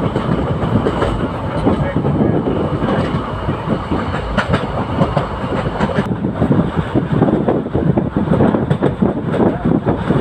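Passenger train in motion, heard on board: a steady rumble of the coach, with a constant rapid clatter of the wheels on the track.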